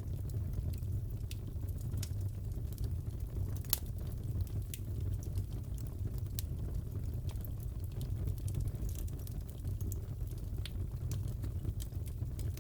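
Fireplace fire crackling: irregular sharp pops and snaps over a steady low rumble, with one louder pop nearly four seconds in.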